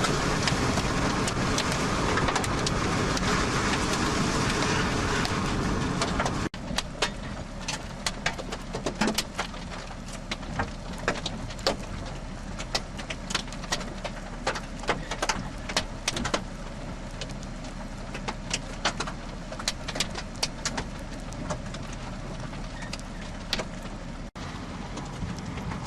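Steady rushing road and wind noise of a moving car for about six seconds. After a short break, a quieter steady hum with scattered sharp taps of raindrops striking the car.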